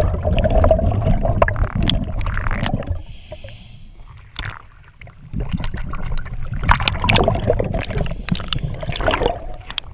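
Water bubbling and gurgling in two long stretches, with a quieter gap holding a soft hiss in the middle.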